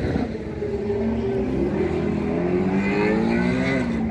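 A car engine revving, its pitch climbing over about three seconds and then dropping just before the end.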